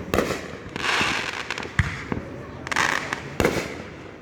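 Fireworks going off: sharp bangs about every one and a half to two seconds, with bursts of crackling between them.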